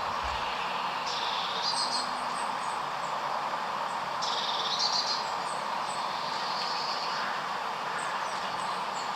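Small birds chirping in two short bursts, about a second in and again around four seconds, with a few fainter chirps later, over a steady rushing noise.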